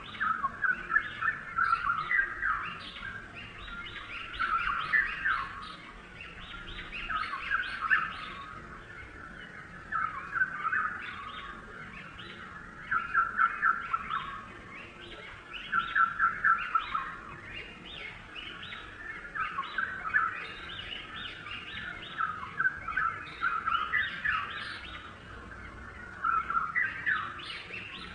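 Small birds chirping and chattering continuously, in rapid bursts of high trills that swell every second or two over a steady background of softer calls.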